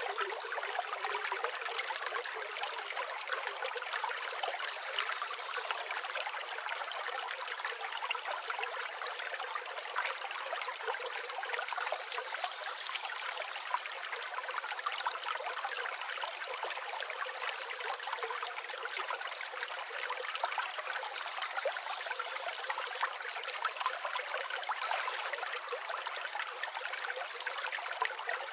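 A river flowing steadily, with a continuous rushing, trickling sound and no low rumble. A few faint, short, high chirps come in briefly now and then.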